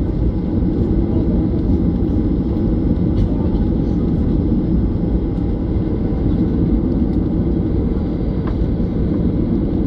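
Steady rumble of a Boeing 737-900's CFM56-7B turbofan engines, heard from inside the passenger cabin.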